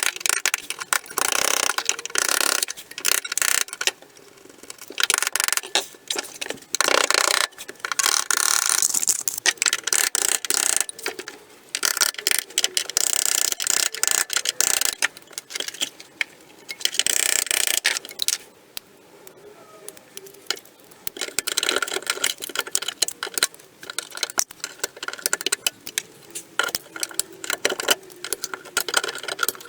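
MIG welder crackling as it lays weld on car body steel, in stop-start bursts of one to four seconds with short pauses between them.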